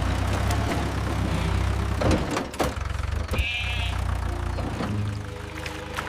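A low, steady engine-like rumble with clatter and knocks, and a short bleating animal call about three and a half seconds in.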